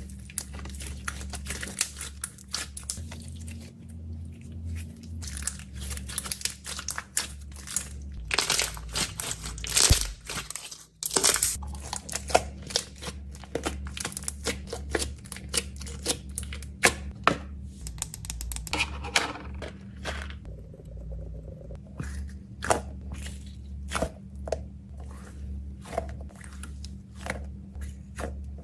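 Plastic packaging being handled up close: crinkling and tearing with many sharp clicks and taps, over a low steady hum.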